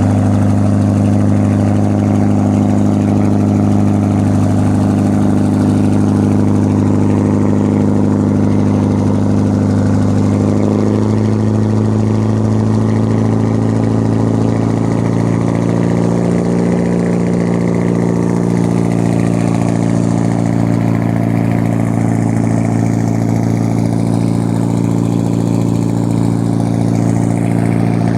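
An engine running steadily, with a low, even hum that shifts slightly in pitch about eleven seconds in.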